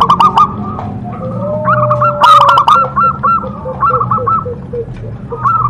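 Zebra doves (perkutut) cooing: quick runs of short, arched notes, with a second, lower run of notes in the middle, over a steady low hum.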